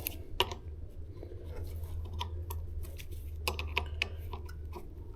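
Scattered light clicks and taps of metal parts as an e-bike wheel's axle is worked into the frame dropouts past the brakes, over a steady low hum.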